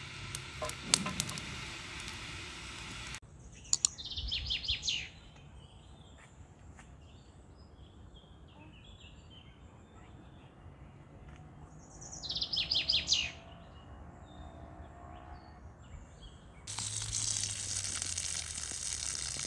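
A wood fire crackling with a few sharp snaps, then a bird calling twice in quick series of high, sharp notes, about four seconds in and again about twelve seconds in. Near the end, water pours steadily from a bowl and splashes onto grass.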